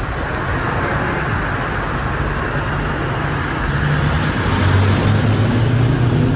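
Road traffic: the tyre and engine noise of a passing truck, its low engine drone growing louder from about four seconds in.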